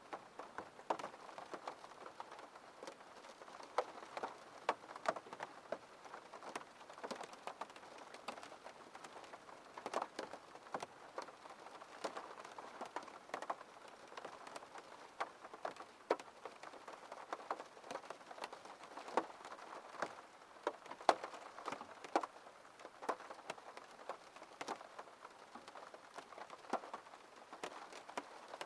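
Rain falling on a window pane: a steady patter of many irregular, sharp drop taps.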